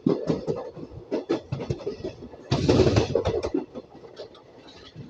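Train running, its wheels clattering and knocking on the track in an irregular run of sharp knocks, with a louder rushing surge about two and a half seconds in that lasts about a second.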